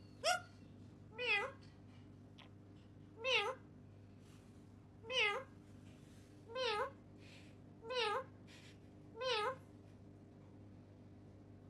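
Seven short meows, one after another about one to two seconds apart, each with a wavering pitch; then no more calls near the end.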